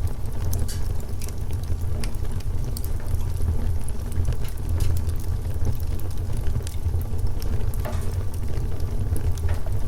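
Wood fire burning: frequent small crackles and pops scattered irregularly over a steady low rumble.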